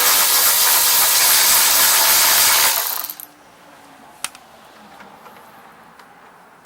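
Milwaukee M12 cordless ratchet running for about three seconds, backing out a 10 mm bolt, then stopping; a single sharp click follows about a second later.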